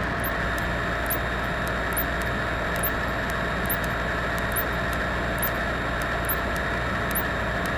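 Cessna 172's engine and propeller running at a steady drone in the cockpit, with faint regular high ticks about twice a second.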